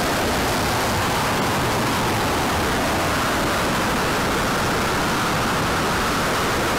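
Steady, loud rushing noise of air blowing across a microphone, even in level throughout, with no distinct tones or clicks.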